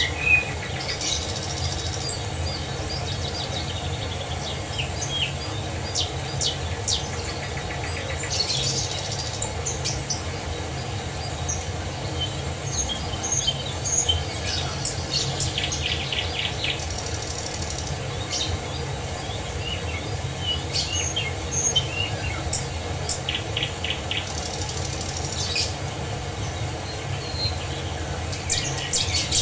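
Small birds chirping and singing, with scattered short calls and a few rapid trills, over a steady low rush that fits a waterfall.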